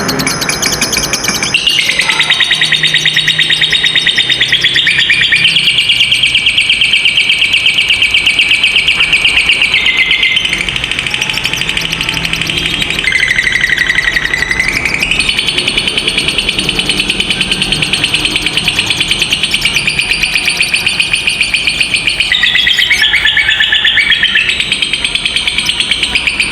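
Lovebird 'ngekek panjang': one long, unbroken, very fast high-pitched chattering trill. It shifts pitch several times, dropping lower for a stretch near the middle and wavering again near the end.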